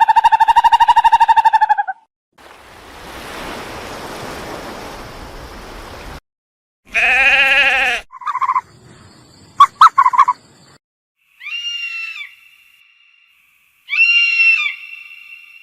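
A string of separate animal sounds, one after another. It opens with a pulsing pitched call, then a hiss lasting about four seconds, then a loud low call near the middle. Short clicks and chirps follow, and near the end come two high calls that drop in pitch.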